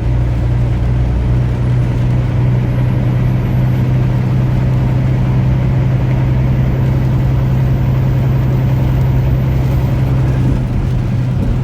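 Steady low engine hum and road noise heard from inside a truck's cab while driving.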